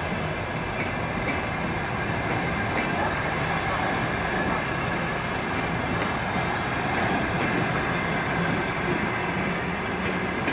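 Passenger train coaches rolling past close by: a steady, continuous noise of wheels running on the rails.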